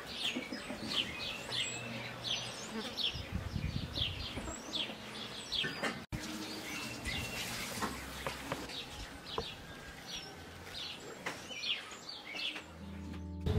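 Small birds chirping, short high chirps repeated over and over, with a brief break in the sound about six seconds in.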